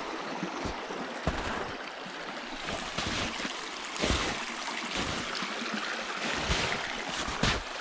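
Creek water running steadily, with a few irregular soft thumps scattered through it.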